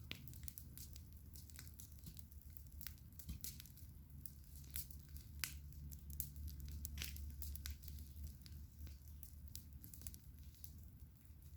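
Campfire crackling: burning wood giving off irregular snaps and pops over a low steady rumble.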